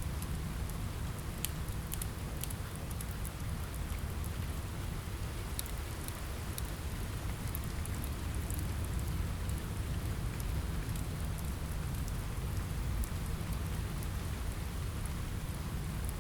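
Steady rain on a window mixed with a crackling wood fire: a constant low rumble and hiss with scattered sharp crackles.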